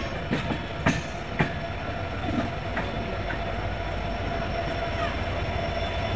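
Indian Railways passenger train running, heard from an open coach door: steady wheel-and-track rumble with the clatter of wheels over rail joints and points. There are several sharp knocks in the first second and a half, and a faint steady whine.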